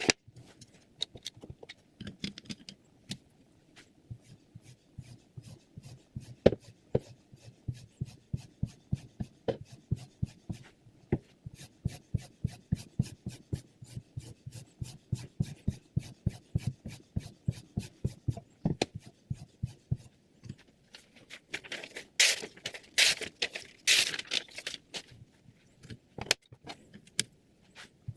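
Sharpening stone on a guided knife sharpener worked back and forth along a steel chef knife blade in short, quick strokes, about three a second. A few louder, longer scraping strokes come near the end.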